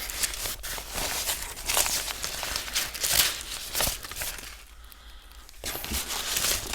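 A sheet of diffusion material rustling and crinkling as it is handled and fitted in front of a light, with a quieter lull of about a second after four seconds in.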